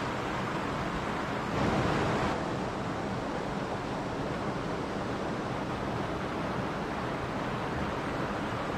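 Mountain stream rushing steadily over rocks, with a brief louder surge of water about one and a half seconds in.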